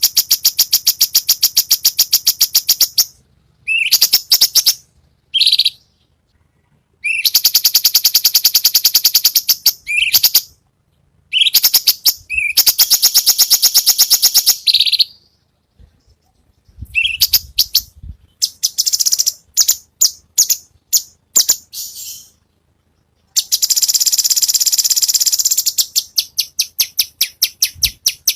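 Cucak cungkok songbird singing: bouts a few seconds long of fast, high rattling trills, separated by short pauses, with shorter chirps between them.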